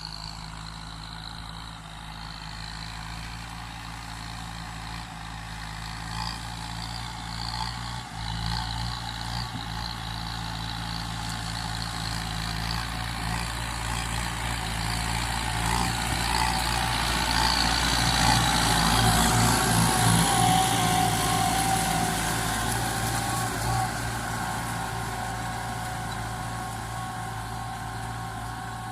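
Kubota M9540 tractor's four-cylinder diesel engine running under load while levelling soil, growing louder toward the middle and easing off near the end.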